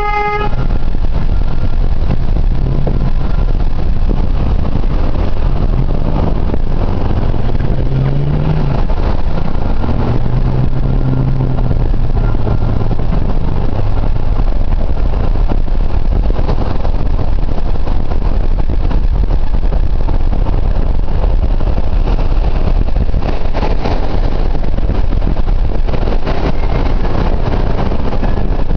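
Loud, steady rushing road noise of a vehicle on the move, with a short car horn toot right at the start and a low engine hum that rises and falls in the first half.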